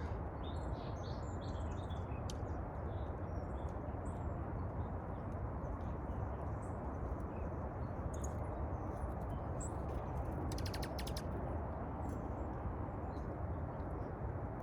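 Small birds chirping now and then, short high calls scattered through, with a brief rapid rattle about ten seconds in, over a steady low background rumble.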